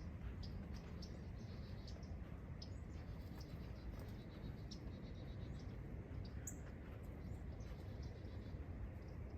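Small birds giving short, high chirps every second or so, with a brief trill near the middle, over a steady low rumble.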